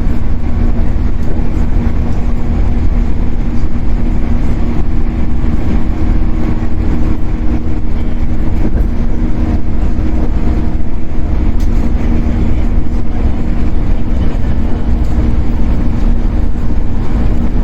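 Shinano Railway 115-series electric train running, heard from inside the motor car: a steady low rumble of wheels on rail with a steady traction-motor hum, as at an even cruising speed.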